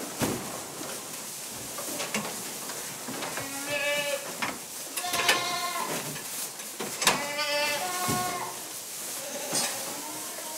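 Livestock bleating: four long, wavering bleats about a second and a half apart, with scattered knocks and clatter around them.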